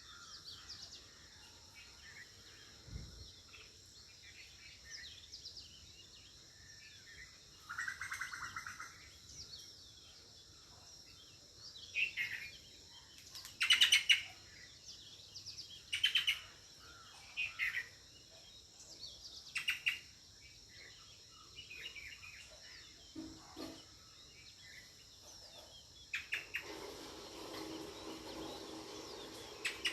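Wild birds chirping and calling in short, scattered bursts, loudest around the middle, over a faint steady high-pitched hum. About 26 seconds in, a steady lower hum begins underneath.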